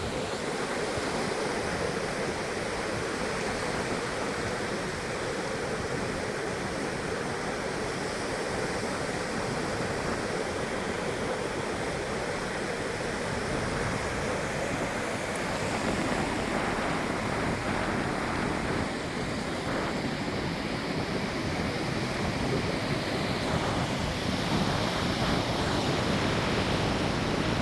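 Steady rush of surf and wind, swelling a little in the second half.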